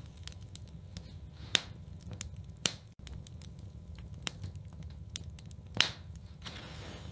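Wood fire burning in a fireplace, crackling steadily with many small snaps over a low rumble. Three louder pops stand out, about one and a half, two and a half and nearly six seconds in.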